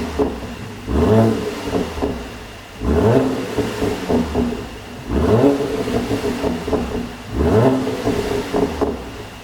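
Mercedes-AMG C43's twin-turbo V6 revved in four quick blips about two seconds apart. Each time the revs fall away, the exhaust pops and crackles, the sign of a tune written to make overrun pops.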